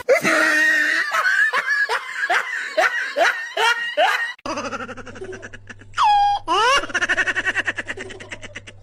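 Laughter in rhythmic bursts, each rising in pitch, about two a second; about halfway through it gives way to a falling squeal and a fast, pulsing laugh.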